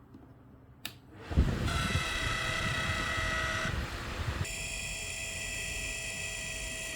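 Ryobi ONE+ 18V Whisper Series cordless fan clicked on about a second in, its motor spinning up and running with a loud grinding whine. The whine's tones shift higher about four seconds in. The noise comes from a dry motor shaft that needs oiling.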